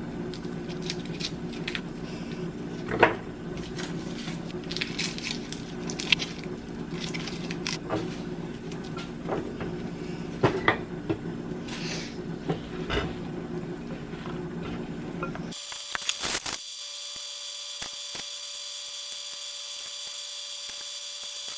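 Spoon and mixing bowl clicking and knocking irregularly as cookie dough is stirred by hand, over a steady low hum. About fifteen seconds in the sound cuts abruptly to a steady high-pitched whine with no clicks.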